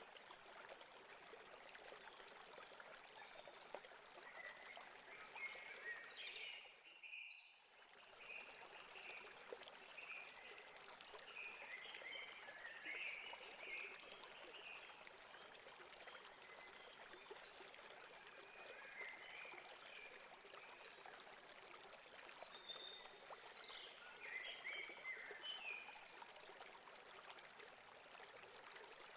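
Faint, steady rush of a river or stream running over rocks, with small birds chirping on and off above it. The sound drops out briefly about seven seconds in.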